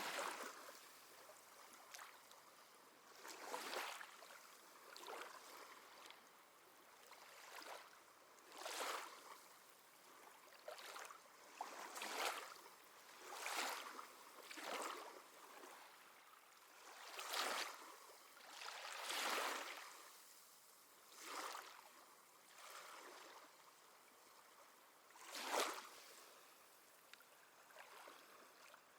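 Small sea waves lapping and splashing at the shore, one soft wash every second or two, the loudest near the end.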